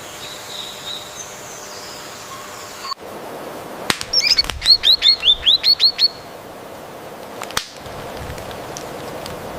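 A songbird singing a quick run of about nine short chirps, a few seconds in, over steady outdoor background hiss. Fainter high bird notes come before it.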